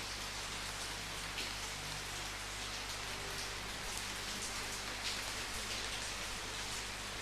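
Steady rain falling on a surface, an even hiss with occasional louder drops or splashes.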